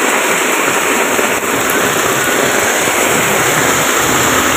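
Heavy rain pouring down in a steady hiss onto pavement and standing floodwater. A low hum joins near the end.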